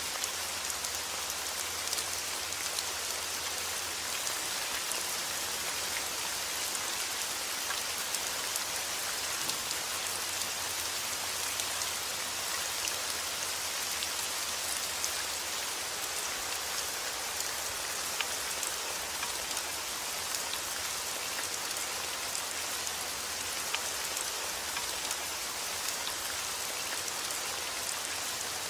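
Steady heavy rain falling outdoors, a dense even hiss with fine scattered drop impacts.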